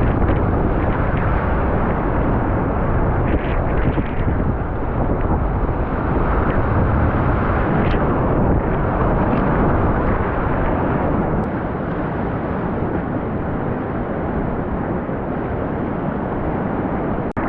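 Rushing whitewater of a river running at about 10 m³/s, a steady loud rush with wind buffeting the microphone.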